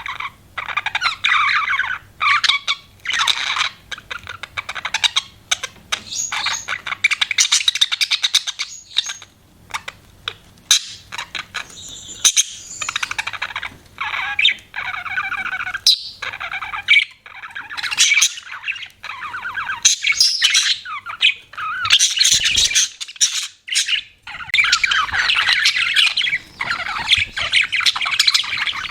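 Budgerigars chirping and warbling in a fast, busy chatter, broken by short pauses.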